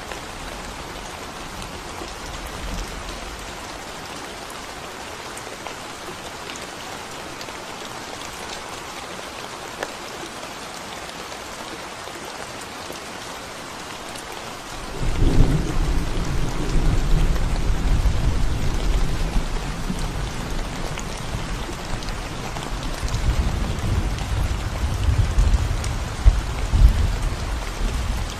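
Steady rain falling on a concrete road. About halfway through, a deep rumble of thunder sets in suddenly and keeps rolling, swelling again near the end.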